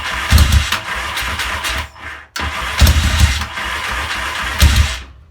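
Yamaha XS650 parallel-twin being cranked on its electric starter in two long bursts with a short break between them, turning over with uneven thumps but not catching. It is struggling to start, which the owner puts down to a carburettor jetting problem.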